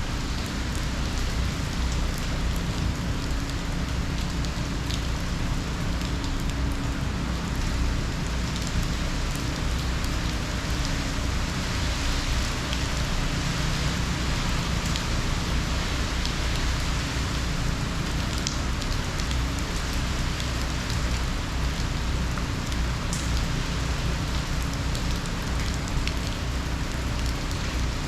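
Steady, continuous hurricane rain falling and pattering on surfaces, with scattered drop ticks and a steady low rumble underneath.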